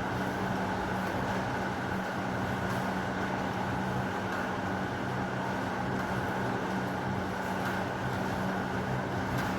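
Steady heavy rain, an even rushing noise with a constant low hum running under it.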